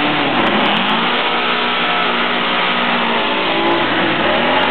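Hot-rodded 1967 VW Beetles' air-cooled flat-four engines revving hard and launching off the drag strip start line, the engine pitch climbing as they accelerate away.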